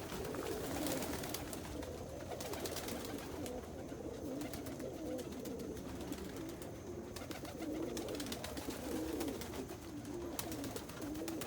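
Domestic pigeons cooing steadily in a loft, several soft, wavering coos overlapping one another.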